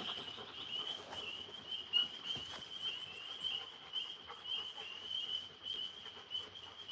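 Chorus of night insects chirping in a steady, high, pulsing trill, with a couple of faint knocks.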